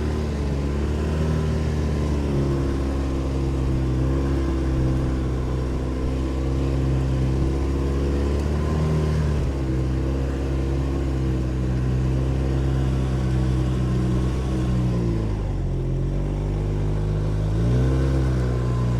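Snowmobile engine running under way, its pitch mostly steady with small rises and falls, dropping as it slows down about fifteen seconds in and climbing again as it speeds back up near the end.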